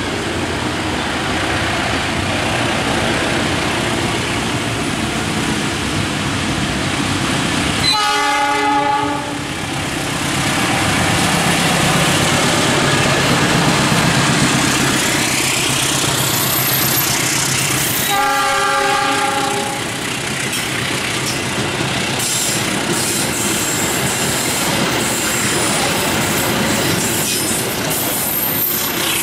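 Diesel locomotive hauling a passenger train: the engine runs and the wheels roll over the rails. The chord horn sounds twice, each blast about a second and a half long, some ten seconds apart. Thin high wheel squeal comes in near the end.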